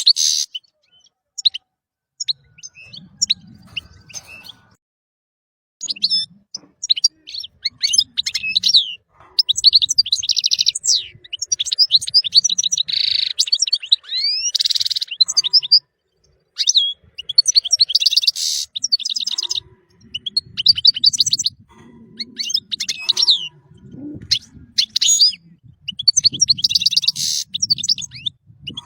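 European goldfinch singing: high-pitched phrases of rapid chirps and trills, broken by short pauses, including a near-quiet gap of about a second and a half early on. A faint low rumble runs under much of the song.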